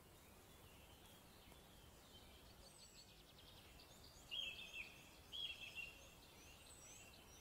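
Faint outdoor ambience with distant birdsong. Two louder bird phrases come about four and five seconds in, with short high chirps above them.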